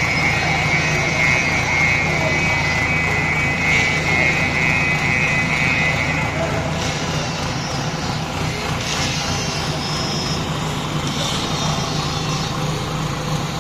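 JCB backhoe loader's diesel engine running steadily, with a steady high-pitched tone over it that stops about six and a half seconds in.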